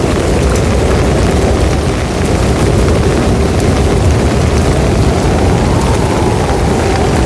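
Loud, steady low rumbling noise with no clear pitch or rhythm.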